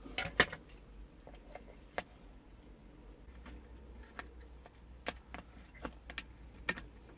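Scattered small clicks and taps of hard plastic parts being handled and prised apart during the disassembly of a mini RC toy tank, with a few louder clicks close together just after the start.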